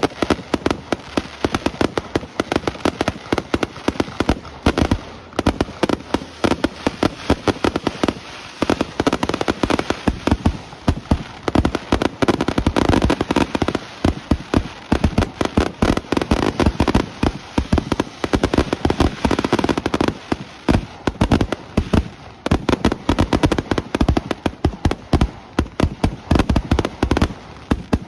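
Fireworks display: a dense, continuous barrage of aerial shell bursts and crackling, many sharp bangs a second with hardly a pause.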